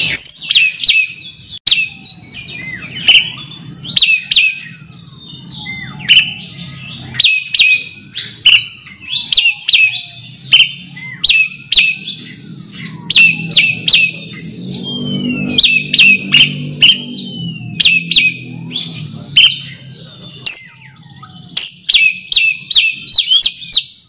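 Oriental magpie-robin singing a fast run of sharp, varied whistles and chattering notes, the call it uses to challenge a rival. A low hum runs underneath, strongest near the middle.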